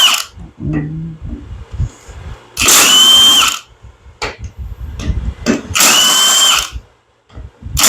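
Power driver whirring in three bursts of about a second each, spinning out cylinder-head bolts, with light metallic clinks and knocks between the bursts.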